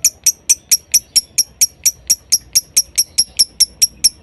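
Lovebird giving its 'konslet' call: an unbroken string of sharp, high, identical chirps at about four to five a second, very even in pace.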